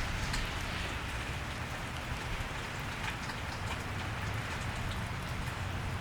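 Steady rain falling on a wet street, with scattered drop ticks over a low, steady rumble.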